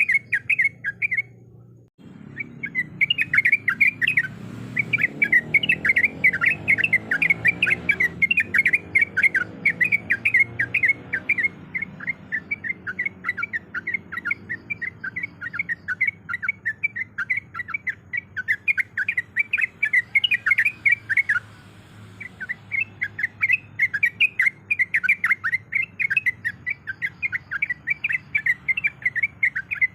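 Yellow-vented bulbul (trucukan) chattering in fast runs of short notes, the excited calling used as a lure to draw other trucukan. The runs break off briefly about two seconds in and again about twenty-two seconds in, over a faint low hum.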